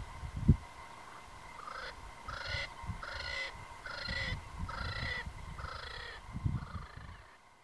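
A bird calling six times in a row, one short call roughly every 0.8 seconds, in the open grassland. A few low thumps come in the opening half-second and again about six and a half seconds in, the loudest of them right at the start.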